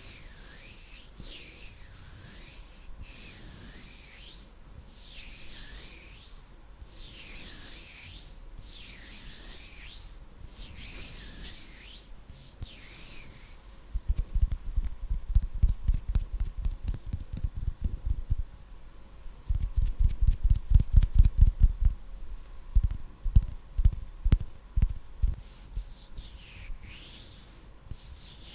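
Bare hands rubbing together close to a microphone in slow, regular swishing strokes, about one stroke a second. Around the middle the swishes give way to two runs of rapid, low, muffled thumps from the hands at the microphone, followed by a few scattered thumps, before the slow swishing returns near the end.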